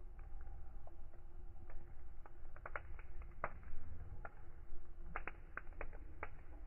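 Fire in a fireplace crackling: irregular sharp pops and snaps, a dozen or so, some in quick pairs, over a low steady rumble of burning.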